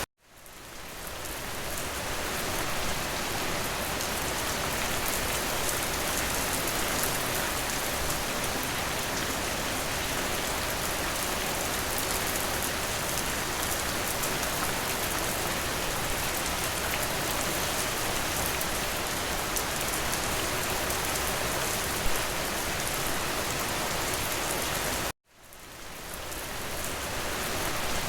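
Steady rain falling against a window, an even hiss of drops. It cuts out to silence twice, at the very start and again near the end, each time fading back in over a couple of seconds, and one drop taps louder shortly before the second cut.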